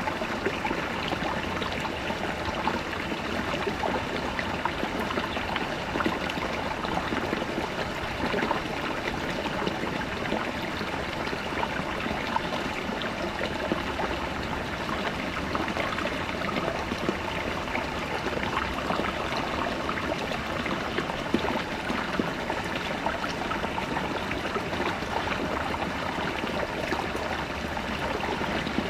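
Small brook babbling over rocks: a steady rush of flowing water with many small splashes and gurgles.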